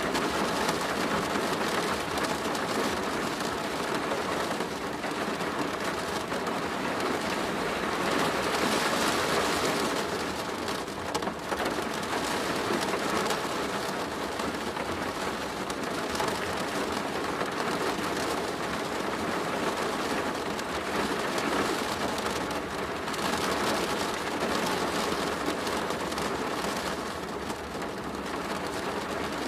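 Steady rain falling on a plastic roof, a dense patter of drops on the sheeting that swells and eases slightly.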